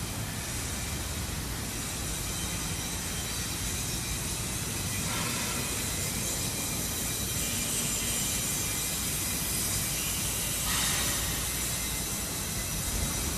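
Heavy machinery running steadily: a low rumble under a constant hiss, the hiss swelling about five seconds in and again near eleven seconds.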